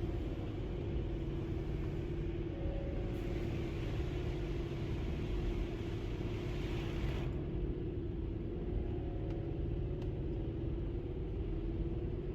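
Steady low rumble heard from inside a car in a touchless car wash, with a hiss against the car that cuts off sharply about seven seconds in.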